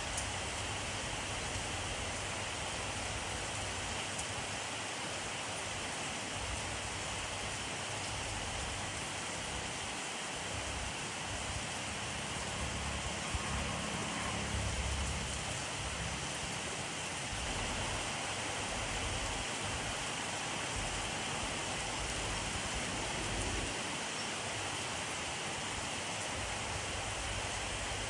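Steady heavy rainfall, an even hiss of rain on surfaces. A low rumble swells briefly about halfway through.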